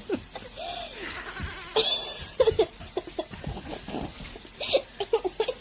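Baby goats bleating, several short separate calls.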